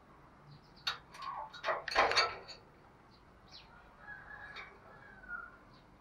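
Bird calls: a short cluster of loud calls in the first half, then fainter, thinner calls.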